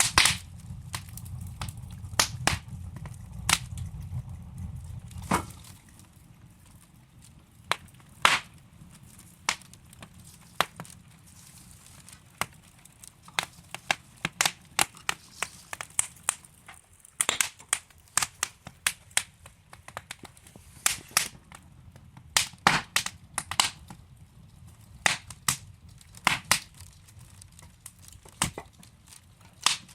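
Wood fire burning in a fireplace, crackling with irregular sharp pops and snaps from the burning logs. A low rumble sits under the first five seconds or so, then drops away, leaving only the crackle.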